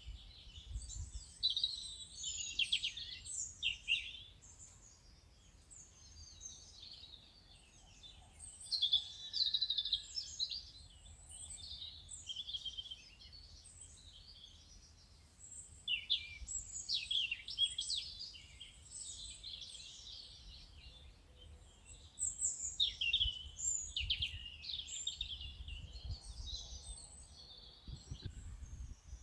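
Several birds chirping and singing together in a busy chorus of quick, high calls, some clusters louder than others, over a faint low rumble: a nature-sound bed of birdsong.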